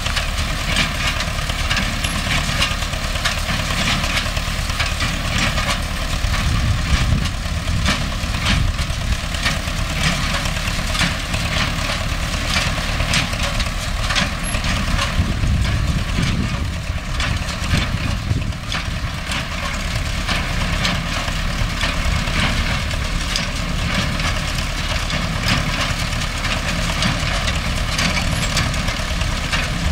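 MTZ-5LS tractor's diesel engine running steadily under load, driving a Vestjyden hay baler, with irregular clattering and knocking from the baler's mechanism.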